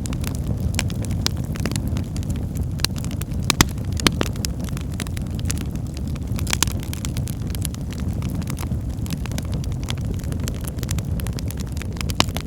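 Logs burning in a fireplace: a steady low rumble of the fire with irregular sharp crackles and pops, two louder pops about three and a half and four seconds in.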